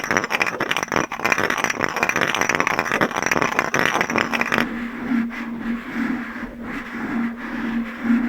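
Rapid, dense tapping on glass objects. About halfway through it gives way to a low steady hum that swells and fades about twice a second, with only a few taps.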